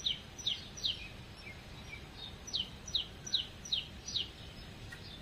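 A bird calling in short, downward-sliding whistled notes, about two or three a second: three in the first second, then after a pause a run of five. The calls sit over a low, steady background hum.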